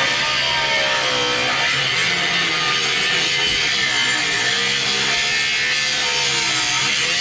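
A power tool cutting metal, running steadily with a whine that dips and rises as it works under load.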